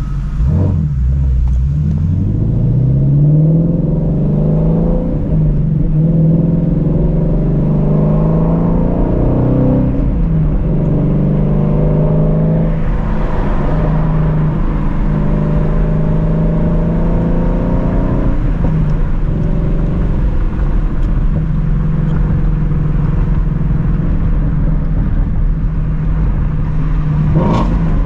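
Shelby GT350's 5.2-litre flat-plane-crank V8 accelerating, its revs climbing over the first few seconds and then holding mostly steady, with brief dips about ten and eighteen seconds in.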